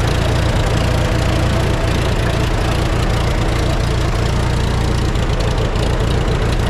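Antique Farmall tractor's gasoline engine running steadily, its firing pulses even, just after being hand-crank started.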